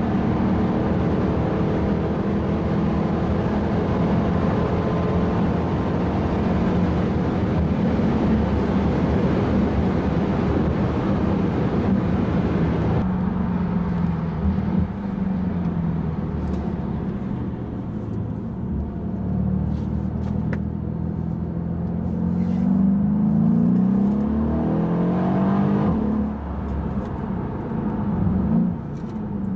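Mercedes E63 AMG V8 heard from inside the cabin, driving under load with its engine note climbing and dropping back through gear changes. Heavy road and wind noise for the first half, easing about halfway through.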